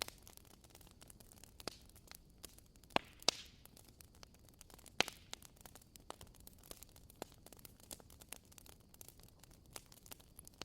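Wood fire crackling quietly: a scatter of small ticks over a faint hiss, with a few louder pops, two close together about three seconds in and another about five seconds in.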